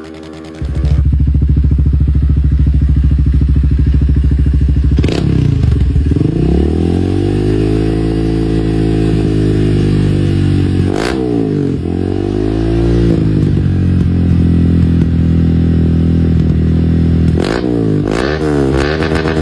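Honda CG 150 Titan's single-cylinder engine running through an aftermarket exhaust. It holds a steady note, swings up and down in pitch twice under the throttle, and is blipped quickly several times near the end.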